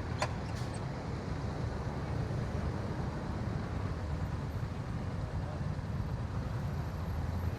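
Motorcycle engine running steadily at cruising speed, a low even hum with road and wind noise. One brief sharp click about a quarter second in.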